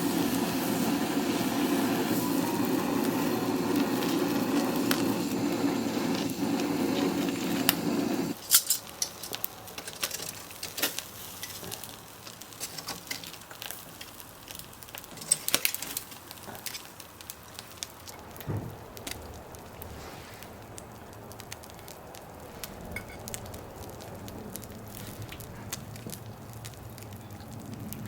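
A steady low hum for the first eight seconds that cuts off suddenly, then a charcoal and wood fire crackling, with scattered sharp pops and faint sizzling.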